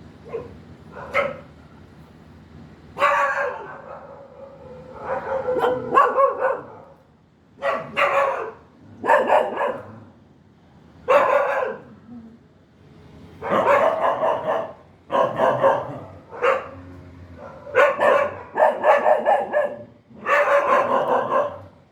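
A dog barking over and over at an uneven pace, about fifteen barks in all. Some are short and sharp, and others are drawn out to about a second.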